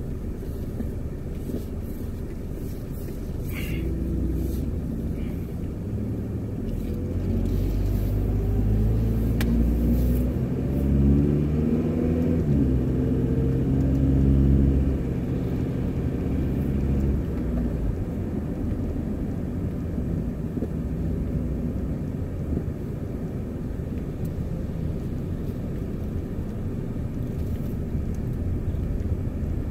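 Car heard from inside the cabin as it pulls away and accelerates: the engine note rises in pitch for several seconds and is loudest between about eleven and fifteen seconds in, then settles into a steady cruising hum with tyre and road noise. No grinding or scraping comes from the wheels, the sign that the refitted brake caliper bracket bolt has cured the rubbing.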